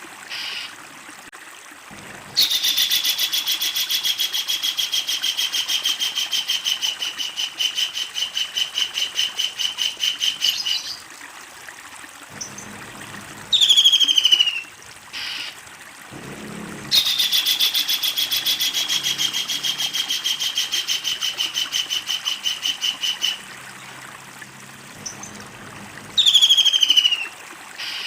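Kingfisher calling: a long, rapid, rattling series of loud, piercing notes lasting about eight seconds, a short call sliding downward in pitch, then a second rattle of about six seconds and another short falling call near the end. This long rattle is the loud, extended cackle that bird keepers play for songbirds to copy.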